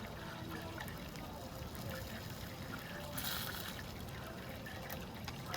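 Beef intestines (daechang and makchang) sizzling on a tabletop grill, a steady hiss with a brief louder flare of sizzle about three seconds in.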